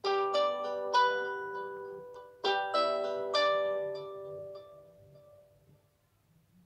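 Plucked string instrument: a few notes and chords struck a second or so apart, each ringing and decaying, dying away by about six seconds in.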